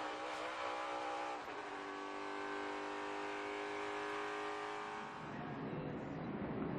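NASCAR stock car V8 engine running at speed, a steady tone that shifts slightly about a second and a half in and gives way to rushing noise about five seconds in.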